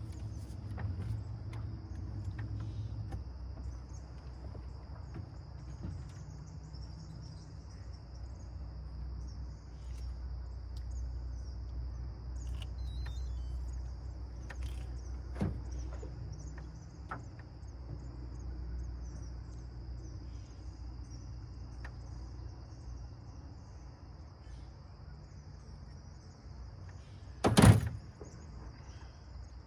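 Steady high insect chirring over a low rumble, with a few faint clicks and one sharp knock near the end.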